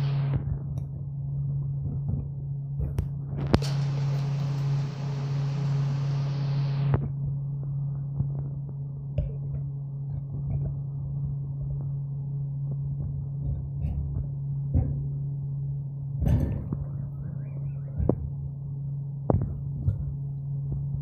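A steady low hum, with scattered light clicks and taps and a few seconds of hiss about four seconds in.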